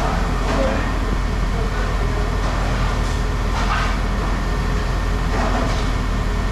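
A steady low engine hum, like a vehicle idling, that holds level throughout, with faint voices in the background.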